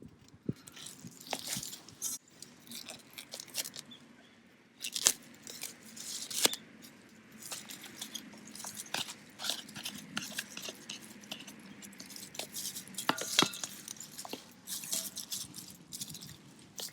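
Wood fire crackling in a small fire stand, with irregular sharp snaps and pops over a faint hiss.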